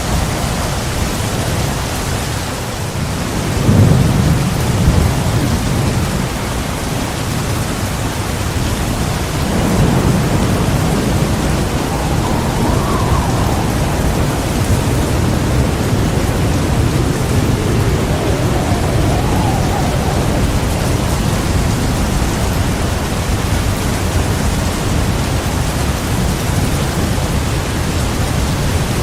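Heavy rain pouring steadily, with thunder rumbling twice: a loud rumble about four seconds in and another around ten seconds in.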